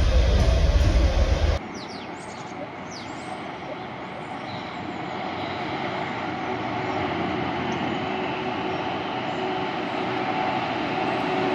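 Heavy low rumble of a train running past, cut off abruptly about a second and a half in. Then a quieter, steady rail noise follows that slowly grows louder, like a train approaching, with a few brief high chirps early on.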